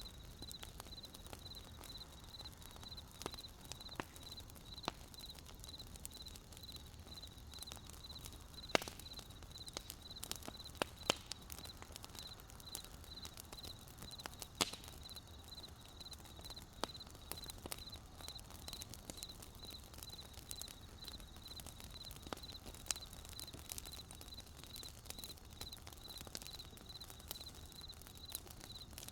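Wood campfire crackling with scattered sharp pops, a few louder ones standing out, over a cricket chirping in steady, evenly spaced high pulses.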